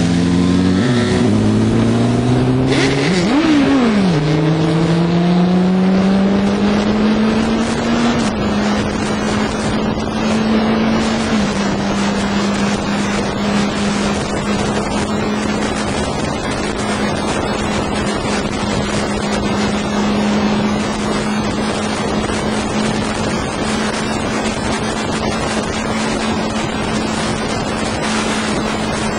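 Motorcycle engine accelerating through the gears, its pitch climbing and dropping back at each shift in the first several seconds, then holding a nearly steady cruising note with a couple of small drops, over a constant rushing noise of wind and road.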